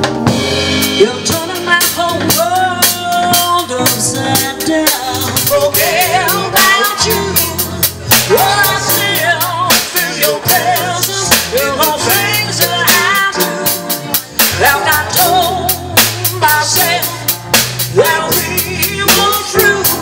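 A band playing a song: a drum kit with snare rimshots and bass drum keeps a steady beat under a bass line, while a lead melody line with vibrato wavers over the top.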